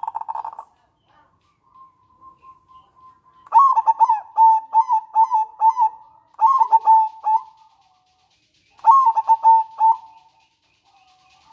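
Local zebra dove (perkutut) calling. A fast trilling rattle (nretek) ends just after the start, followed by three phrases of quick, staccato cooing notes (manggung), separated by short pauses.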